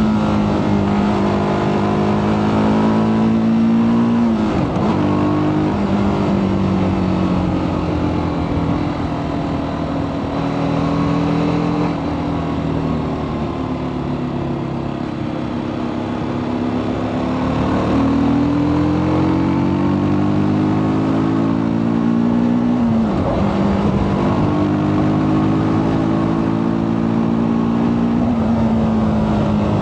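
TVS Apache RTR 310 single-cylinder engine running through its stock exhaust while riding, the engine note rising and falling with the throttle. The note breaks and drops sharply twice, about four seconds in and again about two-thirds of the way through, as gears are changed.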